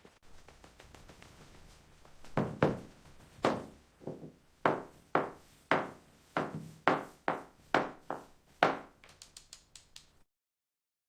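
A series of sharp knocks on wood, about a dozen, unevenly spaced. Near the end comes a quick run of lighter taps, then the sound cuts off suddenly.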